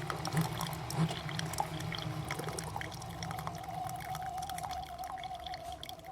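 Single-serve pod coffee maker brewing: its pump hums while coffee streams and drips into a mug. The sound thins out near the end.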